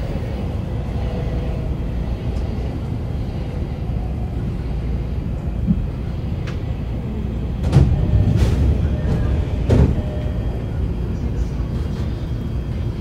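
Running sound of a Shonan-Shinjuku Line electric commuter train heard from inside the car: a steady rumble of wheels on rail. A few sharp clacks from the track come between about six and ten seconds in.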